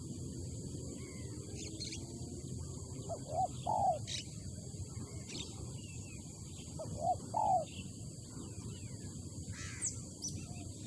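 Spotted dove (tekukur) cooing: two short phrases of low hooting notes, about three and a half seconds apart. Other small birds chirp faintly over a steady low background rumble.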